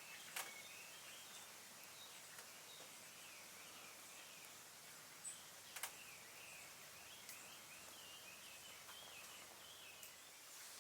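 A few sharp pops and crackles from a small wood fire burning down in a solo fire stand, over faint, continuous high chirping calls.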